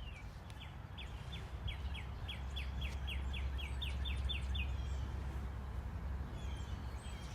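A songbird calling: a run of about a dozen short down-slurred notes, roughly three a second, lasting about four seconds, over a steady low rumble of outdoor background noise.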